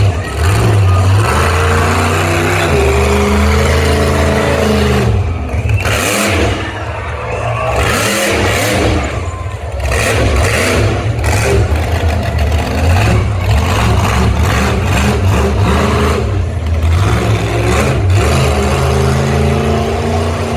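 Monster truck engine revving hard, its pitch rising and falling again and again, with a brief easing off about eight seconds in.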